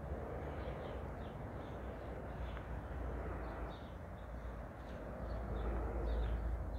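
Small birds chirping in short, repeated calls over a steady low rumble that swells near the end.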